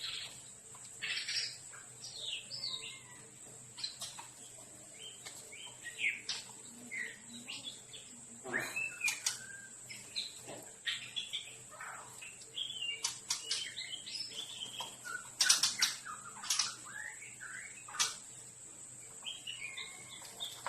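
Captive songbirds calling: a busy mix of short chirps, tweets and whistled notes from several birds, with a louder burst of calls about three-quarters of the way through.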